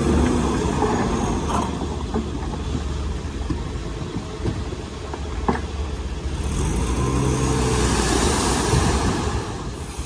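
Heavy diesel construction machinery running, with a few sharp metallic clanks in the first half and the engine revving up and back down in the second half.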